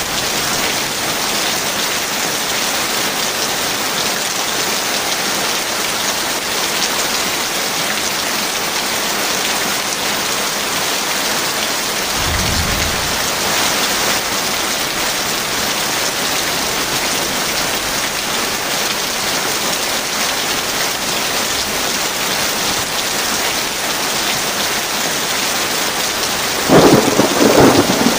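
Heavy rain falling steadily in a thunderstorm. About halfway through there is a low rumble of thunder, and near the end a loud, crackling clap of thunder is the loudest sound.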